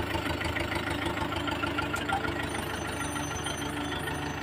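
Mahindra tractor's diesel engine idling steadily, with an even knocking beat.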